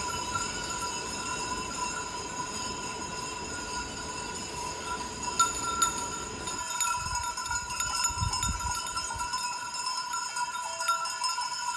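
Metal bells on grazing sheep ringing together in a steady, continuous jangle, with more frequent individual clanks in the second half.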